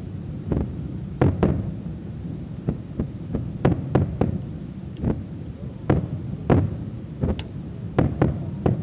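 Fireworks shells bursting, a dozen or so sharp bangs at irregular intervals, each followed by a short rumbling echo, over a steady low rumble.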